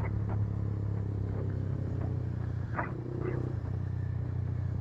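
Motorcycle engine running steadily while riding at a constant pace.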